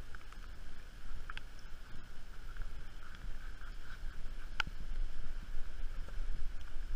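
Steady low rumble of wind and mic handling, with two short high beeps from a metal detector checking a target in the hole, about a second and a half in and again near five seconds.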